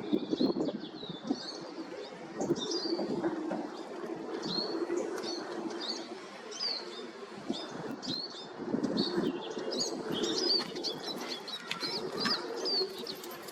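Small birds calling: many short, high chirps, coming thicker towards the end, over a low murmur.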